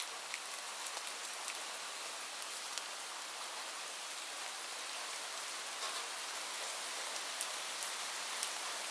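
Steady rain falling, a continuous hiss with scattered sharp drops pattering on a surface.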